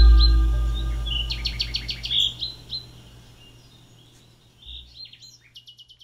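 Birds calling: short whistled notes and rapid trills of chirps, with one run of quick repeated notes about a second and a half in and another at the end. Under them the tail of a synth music drone fades out over the first few seconds.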